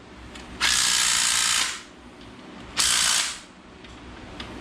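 Power ratchet running bolts down in two bursts: one lasting about a second, starting about half a second in, then a shorter one about three seconds in.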